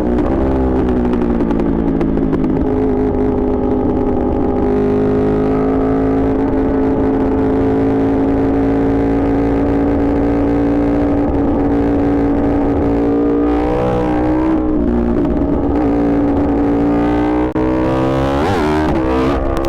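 Yamaha R1 sportbike's inline-four engine running loud and steady under way, holding one note for long stretches. Its pitch dips briefly about two-thirds of the way through, and near the end there is a quick rev up and back down.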